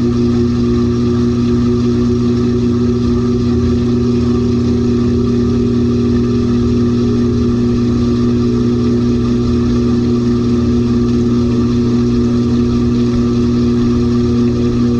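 LG 18 kg top-load washing machine running, its motor giving a steady hum.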